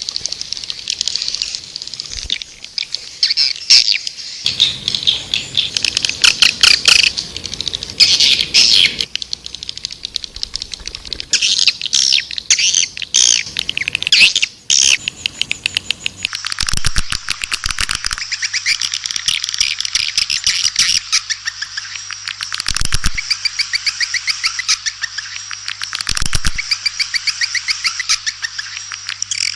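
Swiftlets (burung walet) twittering in dense, rapid chirps and trills: a swiftlet-calling recording of the kind played to lure swiftlets. From about halfway through, the chirping turns more even and a faint steady low hum runs under it.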